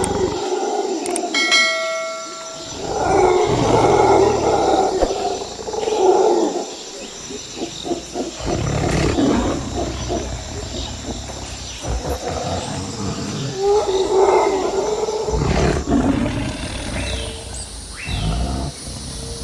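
An animal's calls, rough and pitched, coming in several bouts of a few seconds each.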